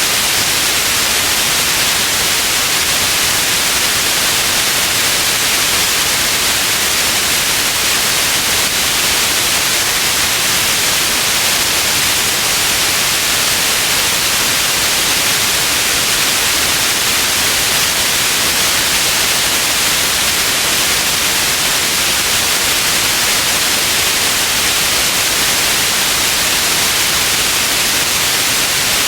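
Steady white noise: an even, unbroken hiss, strongest in the upper range, with no change in level.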